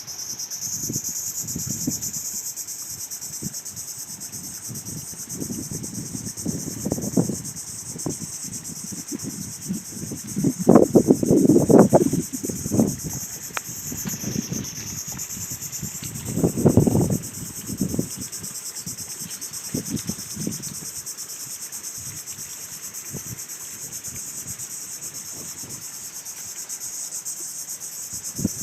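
Steady high-pitched chorus of insects, such as crickets, shrilling without a break. Louder low rumbling noises come and go over it, strongest about 11 and 17 seconds in.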